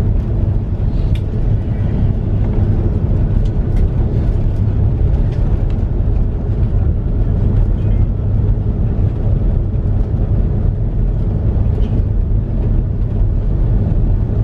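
Cabin rumble of an Airbus A330-300 rolling on the ground after landing: a steady low rumble from the engines and wheels, with a few faint light knocks.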